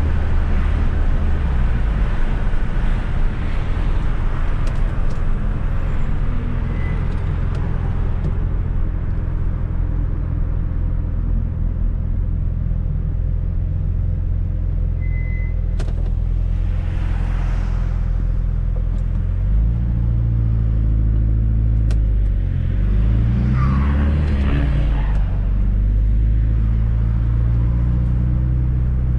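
Fiat Coupe 16V Turbo's turbocharged four-cylinder engine running as the car drives, a steady hum that rises and falls in pitch a few times after about twenty seconds as the engine speed changes.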